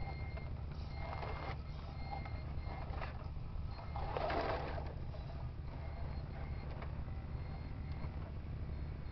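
Radio-controlled Kamaz truck model reversing, its reversing beeper sounding at an even pace over a steady low rumble. Two short, louder noisy bursts come about a second in and again around the middle.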